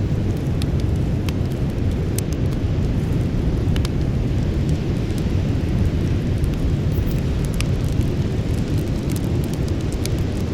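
Campfire burning: scattered sharp crackles and pops of the wood over a steady low rumble.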